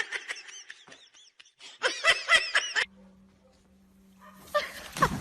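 A small dog yipping in a rapid string of short, high cries that stop about three seconds in.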